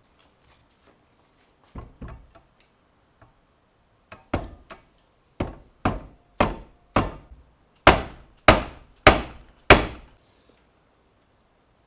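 Hammer blows: a few scattered knocks, then a steady run of eight hard strikes about two a second, the last four the loudest.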